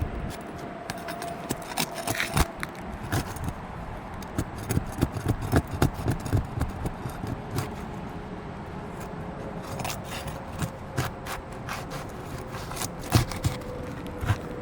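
Irregular scraping, clicking and knocking as roofing shingles are pried and lifted loose from their nails. The shingles are brittle: they tear and break, and nails pull through rather than releasing.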